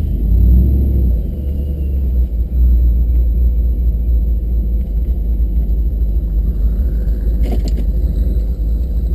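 Low, steady vehicle rumble, with a short rattle about seven and a half seconds in.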